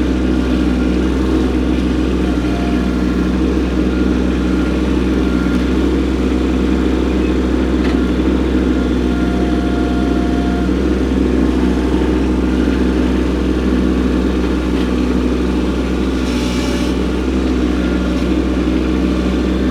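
Kubota B2601 compact tractor's three-cylinder diesel engine running steadily as it works a grapple.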